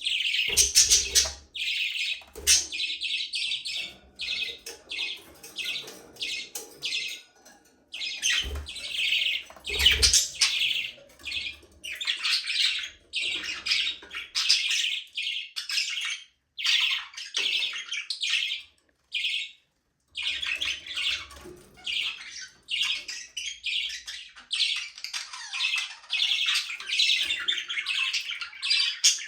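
A flock of budgerigars chattering, with rapid chirps, warbles and squawks overlapping almost without a break. A few low thumps come around the middle.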